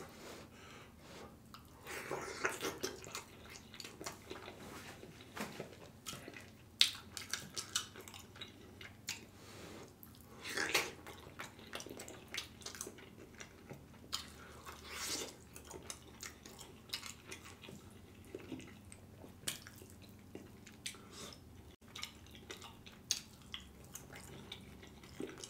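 Close-miked wet chewing and lip smacking on stewed oxtails, with sticky clicks as fingers pull the tender meat off the bone. A few louder smacks stand out along the way.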